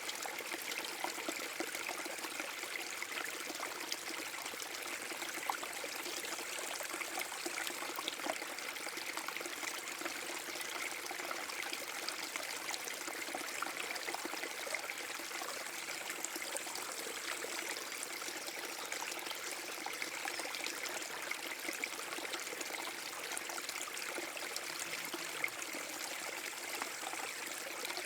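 Small forest-brook waterfall: water pouring and trickling steadily over rocks, a constant splashing rush with fine trickles and gurgles on top.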